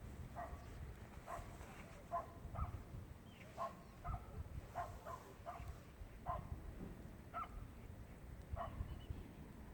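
Birds calling in short, sharp notes, about fifteen of them, irregularly spaced. A low wind rumble runs under them.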